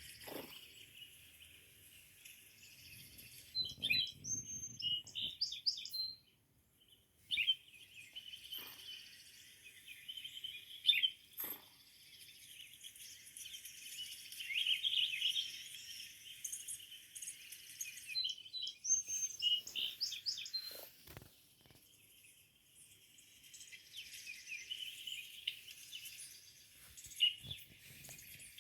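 Small birds chirping and twittering in many short, overlapping calls, with a few sharp clicks in between.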